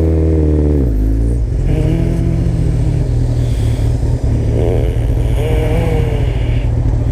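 Kawasaki ZX-14R inline-four sport-touring motorcycle engine running under way. Its revs drop about half a second to a second in, then rise and fall again a few times as the bike rides through traffic.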